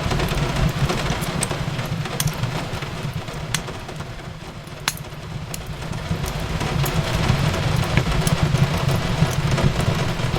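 Fireplace crackling, sharp pops scattered through it, over a steady low rumble and the hiss of rain on a window. It dips quieter for a couple of seconds near the middle.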